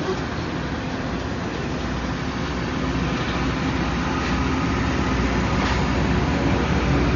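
Loram rail grinder train rolling past at a grade crossing: a steady rumble of engines and wheels on rail that grows slowly louder.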